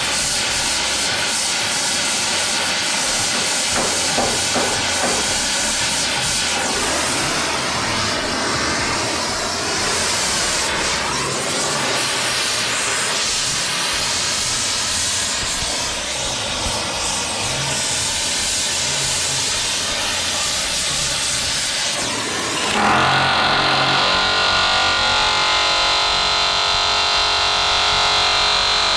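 Loud steady hissing noise. About 23 seconds in it changes, and several steady tones sound under the hiss.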